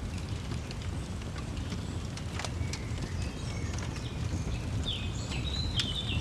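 Wood fire crackling, with scattered sharp pops over a steady low rumble. A songbird chirps a quick run of high notes near the end.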